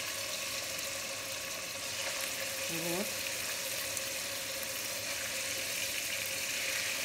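Chunks of beef liver sizzling steadily in hot fat in a frying pan over the highest flame, being seared to seal in their juices.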